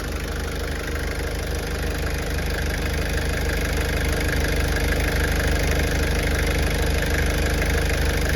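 Toyota HiAce diesel engine idling steadily with the typical diesel knock, growing slightly louder over the first few seconds.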